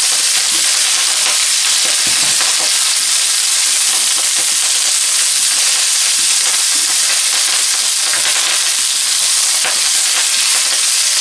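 Fresh kale leaves sizzling in hot olive oil in a wok, a steady loud hiss, while a spatula stirs them with light scrapes against the pan.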